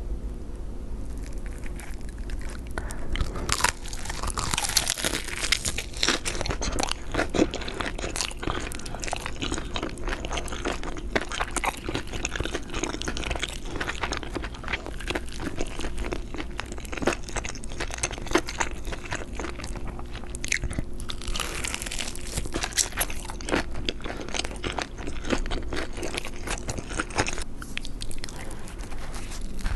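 Close-miked eating of crispy fried chicken: repeated crunchy bites and wet chewing, with many irregular crackles.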